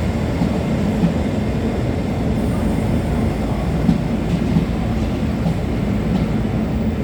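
Northern Belle train passing on the rails: a steady rumble that holds level throughout.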